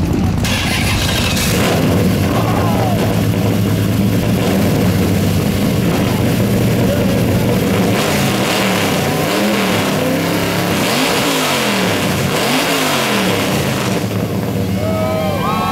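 Car engine running loudly at a fast idle, then revved up and down several times in quick succession about halfway through. Voices and music over a loudspeaker come in near the end.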